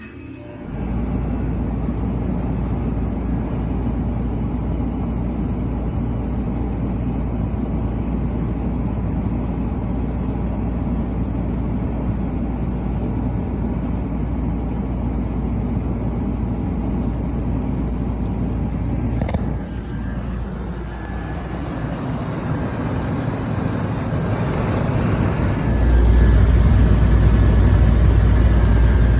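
Trane XB10 central air conditioner's outdoor unit starting up about half a second in, then running with a steady low hum and rushing air from the compressor and condenser fan. A short sharp click about two-thirds through, after which the sound dips briefly and then grows louder near the end.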